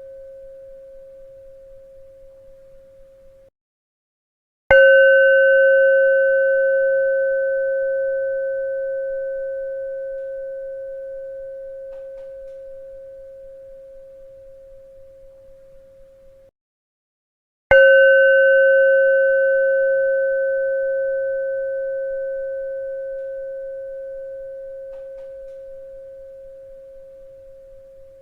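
A bell ringing out as one clear tone with fainter higher overtones, slowly fading. It is struck twice, about five seconds in and again about thirteen seconds later, and each time the ringing cuts off suddenly about a second before the next strike.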